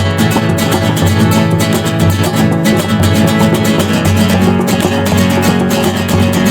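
Acoustic guitar, capoed at the second fret, strummed in a steady rhythm through the chant's A minor – G – E chord cycle, with no singing.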